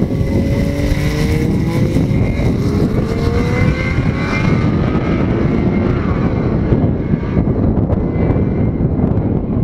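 Turbocharged Toyota 1JZ-GTE 2.5-litre straight-six in a Holden VB Commodore accelerating hard away down a drag strip, its pitch rising in several runs as it shifts up through the gears. It fades with distance after about five or six seconds.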